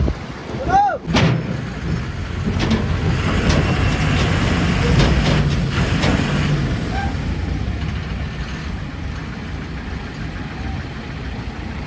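Heavy diesel engines of tractors and a stuck truck running hard under load, with a short falling whistle-like tone about a second in. The engines are loudest through the middle and ease off near the end.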